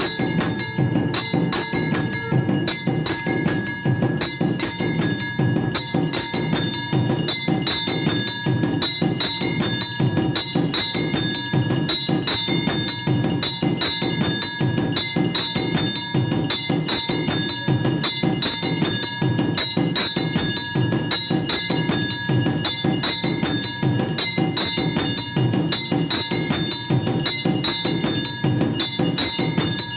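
Temple bells ringing and percussion beating fast without a pause, the sound of a Hindu evening aarti.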